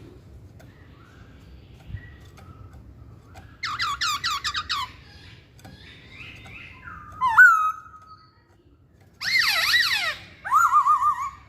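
Poksay Hongkong laughingthrush singing in loud whistled phrases: a fast run of repeated downslurred notes, a single bent whistle, then another dense run of falling notes ending in a wavering whistle, with short pauses between phrases.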